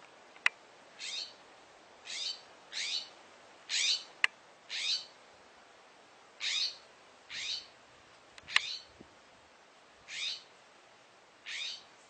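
A bird calling over and over, about one short, downward-sliding call each second, the alarm calls of a bird confronting a snake. A few sharp clicks fall between the calls.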